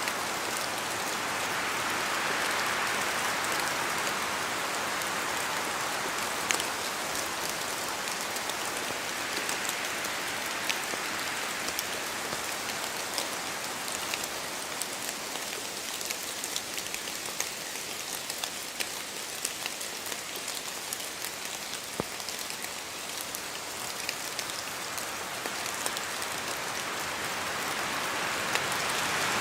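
Steady rain falling through forest trees, with scattered sharper drops ticking on leaves. The rush of rain and wind swells, eases off in the middle, and builds again near the end.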